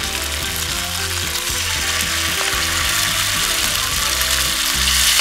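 Garlic and chilies sizzling in hot oil in a frying pan on a portable gas stove, a steady hiss that grows louder near the end as sauce is squeezed into the pan.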